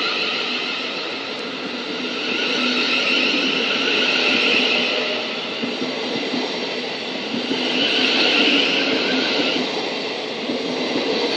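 Class 700 electric multiple unit pulling out of the platform: a steady whine from its traction equipment over the rumble of wheels on the rails. The whine swells twice, a few seconds in and again past the middle.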